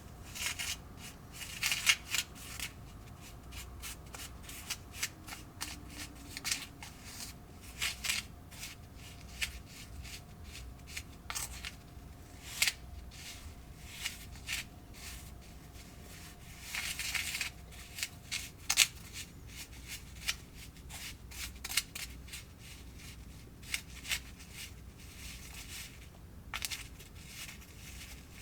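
Hands working a DIY candy kit's plastic trays, packets and small spoon: scattered light clicks, taps and short rustles, with a couple of longer rustles around the middle.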